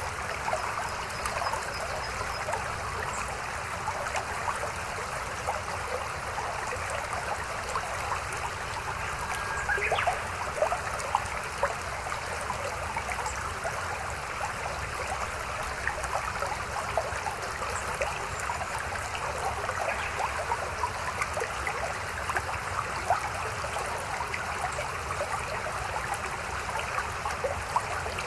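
Mountain stream babbling and trickling over rocks, a steady rush of water with small splashes.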